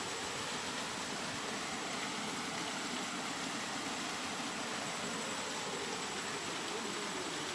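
Continuous rain as a steady, even hiss with no separate drops or changes.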